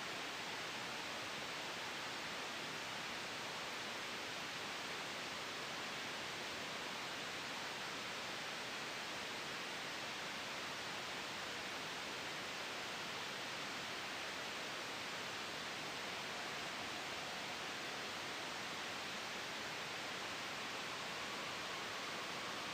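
Steady soft white noise made for sleep, blended with a gentle wind sound: an even hiss, strongest in the upper middle, with no change in level.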